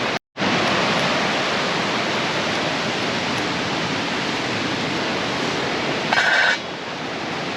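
Steady rushing of a fast river. The sound cuts out for an instant near the start, and a short high squeak sounds briefly about six seconds in.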